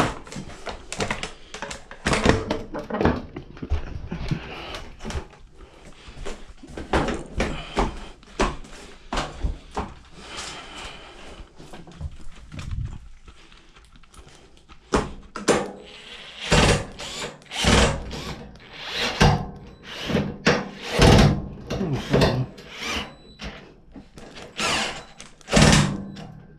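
Irregular knocks, clunks and clicks of washing-machine parts and panels being handled and fitted back together, some of them sharp and loud.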